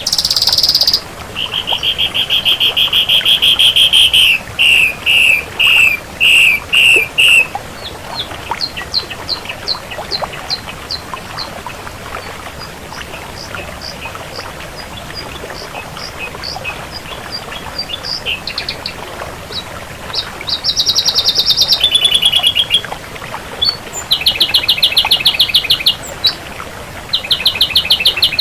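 Ashy drongo singing a varied song. It opens with loud, rapid buzzy trills and pulsed notes, has a quieter middle run of short sharp chirps at about two a second, and returns to loud rapid trills in the last third.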